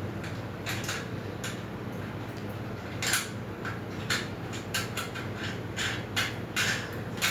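Grill parts being handled and fitted together: a run of short, irregular metal clinks and scrapes, the loudest about three seconds in and again near the end, over a steady low hum.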